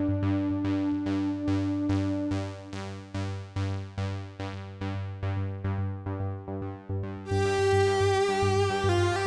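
Synthesizers playing: a single-note arpeggio repeating a few notes a second over held low notes and a chord. About seven seconds in a brighter, fuller sustained sound comes in and it gets louder.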